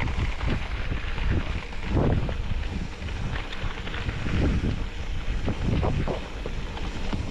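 A vehicle driving, a steady low rumble of engine and road, with wind buffeting the microphone in irregular gusts.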